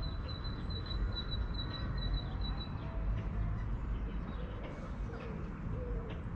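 Birds calling outdoors: a high, steady trill for the first three seconds, then faint low calls, over a constant low rumble.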